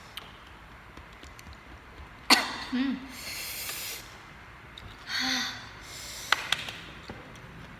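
Mouth and breath sounds of a person eating very spicy food: a sudden sharp exhale about two seconds in, then hissing breaths drawn in over the lips twice, with a few small clicks near the end.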